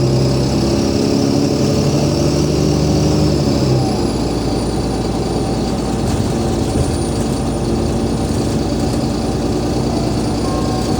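Cummins ISL diesel engine of an Alexander Dennis Enviro500 MMC double-decker bus, heard from on board, running with a steady humming drone. About four seconds in the drone drops away, leaving a lower, rougher engine rumble with road noise.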